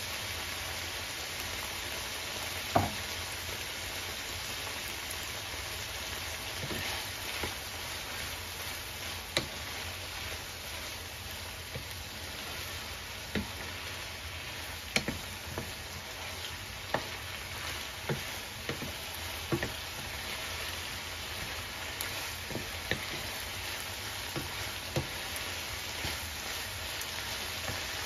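Beef and chopped tomatoes sizzling in a frying pan while a wooden spatula stirs them, tapping and knocking against the pan at irregular intervals every second or two. A sharp knock about three seconds in is the loudest.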